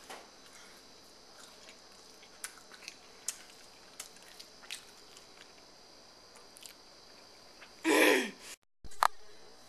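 A person chewing food with soft, wet mouth clicks. Near the end comes a short vocal moan falling in pitch, the loudest sound, then the sound cuts out for a moment.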